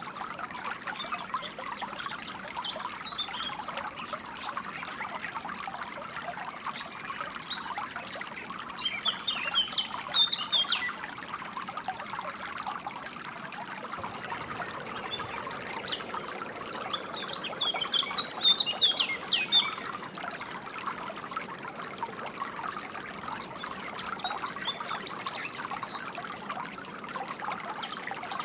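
Water trickling steadily over stones, with small birds chirping above it in two bursts of rapid song, one about a third of the way in and one past the middle, and a few chirps near the end.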